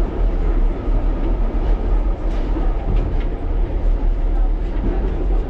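1938 Tube Stock train running, heard from on board: a loud, steady low rumble with a few faint clicks from the rails.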